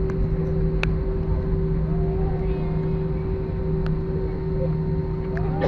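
Steady drone of an airliner cabin in flight: a constant low rumble of engines and airflow with a steady hum, and a sharp click about a second in.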